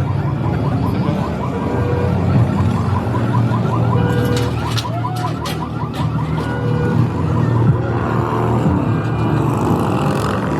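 A vehicle engine running with a steady low hum. Over it, a fast warbling, siren-like tone repeats several times a second for the first half, and a few short clicks come in the middle.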